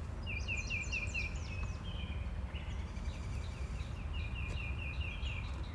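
A bird calling in two series of quick, evenly repeated high chirps, about five a second, over a steady low rumble.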